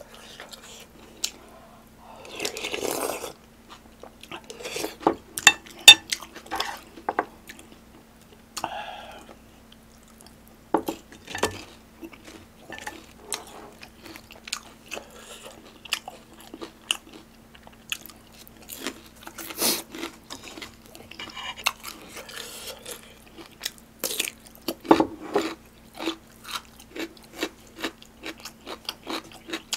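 Close-miked eating: chewing and crunching of fried sweet-and-sour pork and ramen, with many small irregular crunches and mouth clicks and a few longer slurping-like stretches. A faint steady hum sits underneath.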